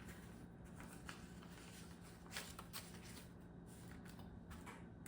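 Faint rustling of paper banknotes being handled, with a few soft flicks and taps of the bills.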